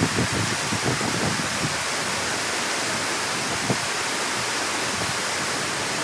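Water rushing steadily through a dam or canal gate, with a few short low splashes or knocks in the first second and once more about four seconds in.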